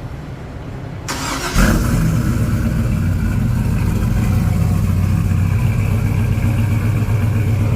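Car engine cranking briefly and catching about a second and a half in, then idling steadily with a deep exhaust note through freshly reworked muffler-shop exhaust.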